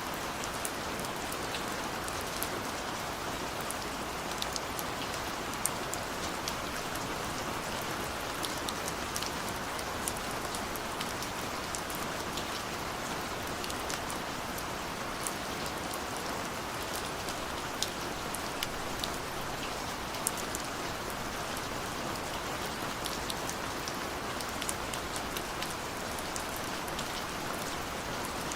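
Steady rain falling on a window, a continuous hiss with many sharp individual drop taps scattered through it.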